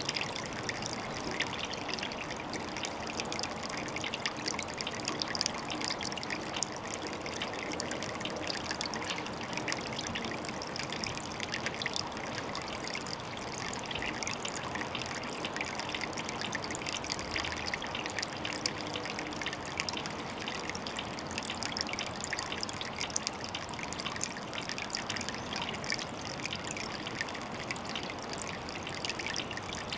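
Water trickling and splashing steadily, a small flow of running water at a pond.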